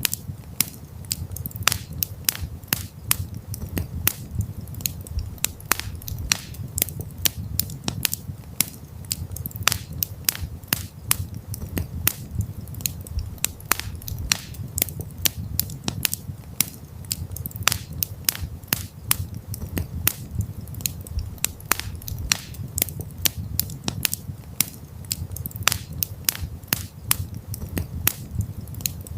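Campfire crackling: a dense, irregular run of sharp pops and snaps over a steady low rumble from the burning fire.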